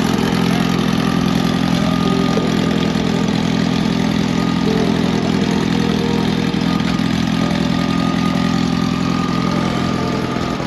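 A vehicle engine idling steadily at an even pitch, loud and close, easing off slightly near the end.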